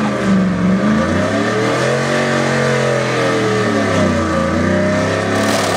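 1999 Chevrolet Silverado pickup's engine revving hard in a burnout. The revs drop sharply at the start, then swell and fall back twice, over a steady hiss from the spinning tyres.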